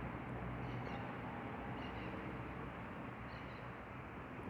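Steady rain falling, an even hiss, with a few faint bird chirps now and then.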